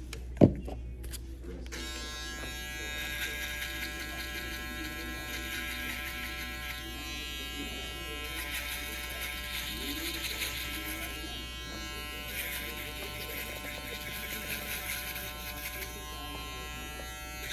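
TPOB GO electric hair clippers switching on about two seconds in and buzzing steadily while cutting hair, after a sharp knock just before.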